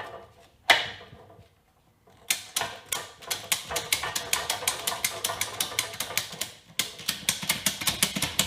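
Ratchet tie-down strap being cranked tight: the pawl clicks rapidly, about seven clicks a second, with a brief pause in the middle as the handle is worked, tightening the strap around the load.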